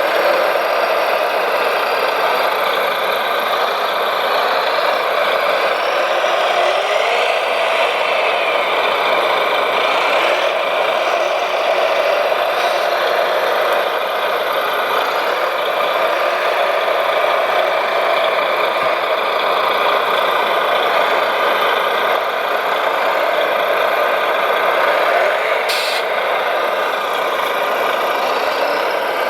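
Radio-controlled model construction machines running: a steady motor noise with whines that rise and fall in pitch several times, and a short sharp click near the end.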